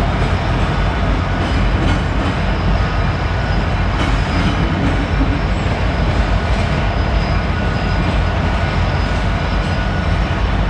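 Train rolling past at close range, a steady loud rumble of wheels on rail.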